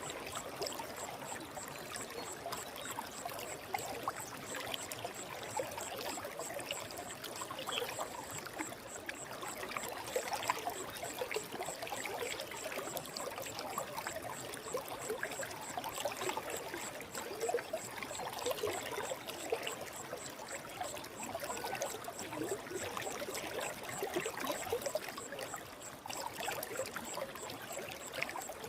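A forest stream flowing steadily: an even rush of water dotted with many small splashes.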